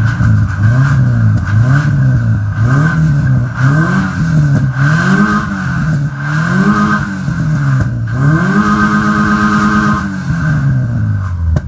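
The 2001 Subaru Forester's EJ25 flat-four engine being revved hard, blipped up and down about seven times in quick succession. It is then held at high revs for about two seconds and drops back to idle near the end, while the engine is being thrashed on purpose to make it fail.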